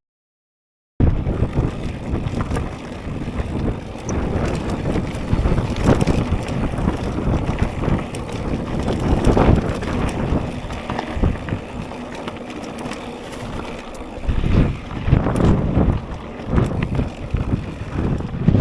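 Strong crosswind buffeting an action camera's microphone during a mountain bike ride, mixed with the rumble and rattle of the bike running over the trail. It starts after about a second of dead silence.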